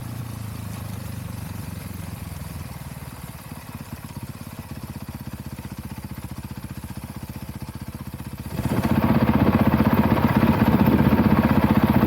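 Dirt bike engine running at idle with a steady pulse. About eight and a half seconds in it abruptly gets much louder and stays loud.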